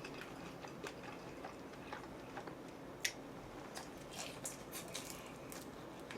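A person chewing and eating food close to the microphone, with scattered small clicks and smacks. The sharpest click comes about three seconds in, and several more follow close together after about four seconds.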